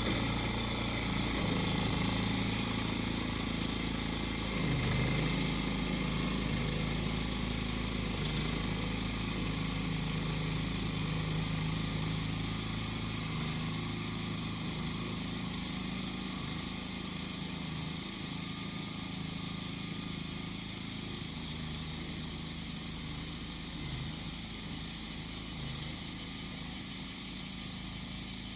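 Small engine of a grass-cutting machine running steadily and slowly growing quieter, with cicadas singing over it.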